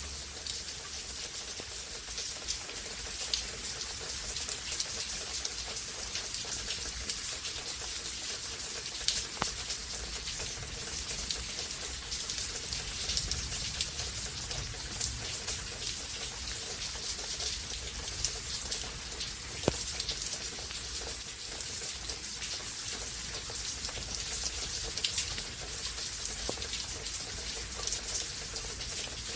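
Steady rain falling, an even hiss full of small drop ticks, with a few louder single drops striking close by, the sharpest about two-thirds of the way through.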